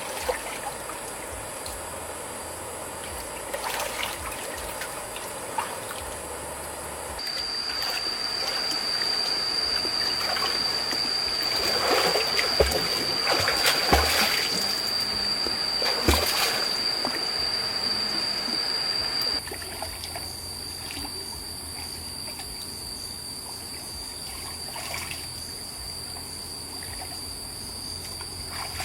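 Stream water trickling and splashing, with scattered light knocks and splashes. A steady high-pitched tone joins about a quarter of the way in and runs on to the end, and the background level jumps up and then drops back abruptly, as at edits.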